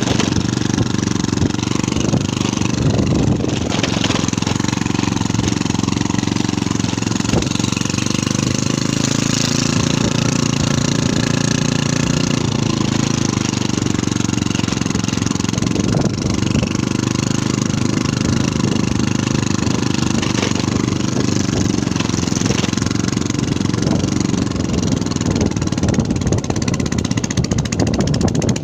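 An engine running steadily, its pitch shifting slightly now and then.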